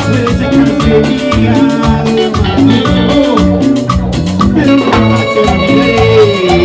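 Live band playing Latin dance music with a steady, driving beat and melodic lines over it.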